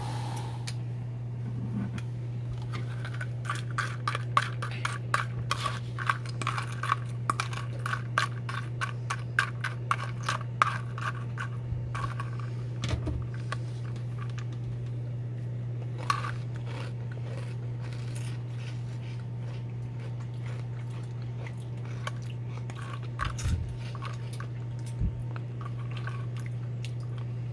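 Crunchy cereal being chewed with milk, in quick crunches for about ten seconds, then only now and then, over a steady low hum.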